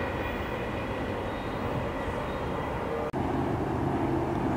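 Union Pacific intermodal freight train rolling away downgrade in the distance: a steady rumble with a few faint steady tones above it. About three seconds in, the sound cuts off abruptly and is replaced by a lower steady hum.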